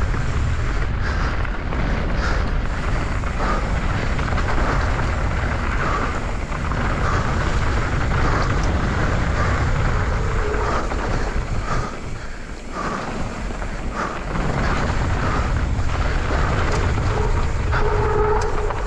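YT Capra mountain bike riding fast down a dirt trail: wind rushing over the helmet camera's microphone, with tyres running over dirt and the bike rattling.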